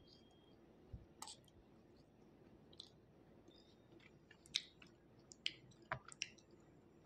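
Faint wet mouth clicks and soft chewing of water-soaked slate, with a few sharp clicks scattered through the second half.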